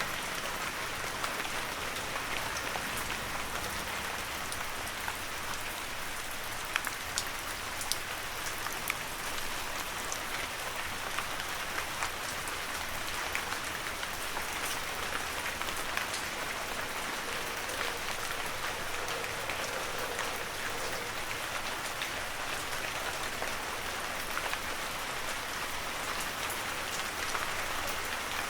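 Steady heavy rain falling in a forest, an even hiss with the sharp taps of individual drops scattered through it.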